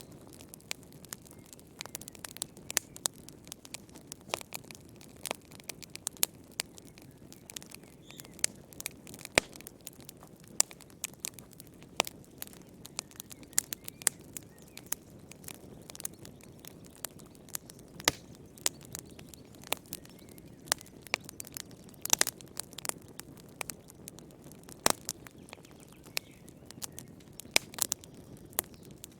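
Wood fire crackling in a fireplace: irregular sharp snaps and pops, several a second, over a steady low rush of the flames.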